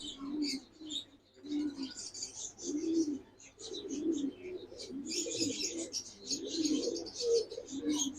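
Domestic pigeons cooing over and over in a loft, with many quick high-pitched chirps mixed in.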